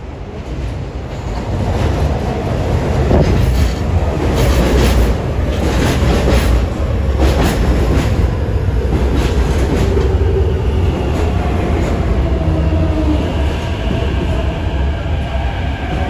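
MTR C-train metro train running, heard on board: a heavy low rumble that builds over the first couple of seconds, with rail clatter and clicks in the middle. From about two-thirds of the way through, a motor whine rises slowly in pitch as the train gathers speed.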